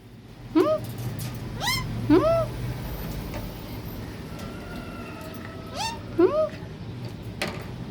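Parrot giving short, sharply arching pitched calls in two groups: three in the first two seconds or so, then two more about six seconds in.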